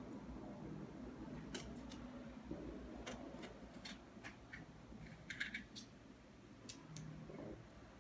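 Faint, scattered sharp clicks and light taps at irregular intervals over a low, steady room hum.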